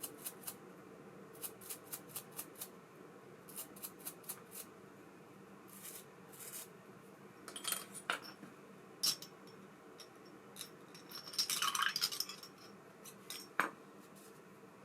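Small metal fishing-reel parts being handled on a workbench: runs of quick, evenly spaced light clicks in the first few seconds, then scattered taps and a short rattling clatter a little past the middle.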